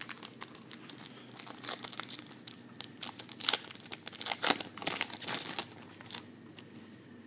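A trading card pack's wrapper being torn open and crinkled by hand, with irregular crackling that is loudest in the middle.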